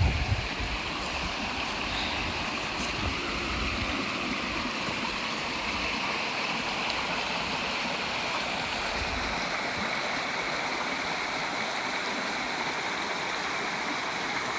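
River water flowing steadily, a continuous even rush, with some low rumbling on the microphone in the first few seconds.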